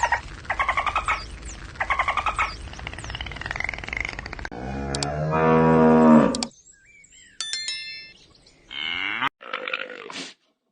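A cow mooing once, long and deep, about halfway through, the loudest sound here. It comes among a string of other short animal calls, one after another: repeated higher-pitched calls before it and a few brief sounds after it.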